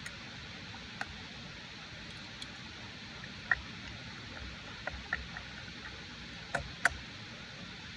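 Steady rain hiss with a few scattered sharp ticks.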